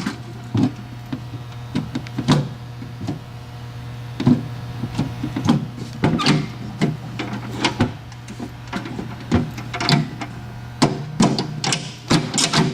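Electric water pump motor humming steadily, overlaid by irregular knocks and clatter, as the pump is set running against rising floodwater.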